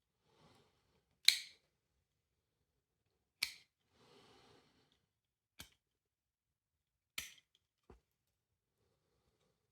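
Hard plastic clicks and snaps of a window vacuum cleaner's parts being handled, five sharp clicks spread over several seconds with light rustling between them, the first click the loudest.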